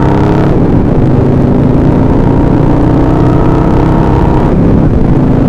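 Harley-Davidson Sportster V-twin motorcycle engine running under way, its pitch rising slightly as it pulls.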